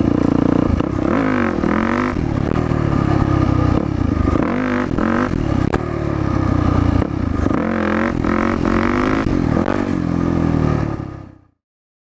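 Yamaha WR450F single-cylinder four-stroke dirt bike engine revving up and down under throttle, its pitch rising and falling several times, before the sound cuts off near the end.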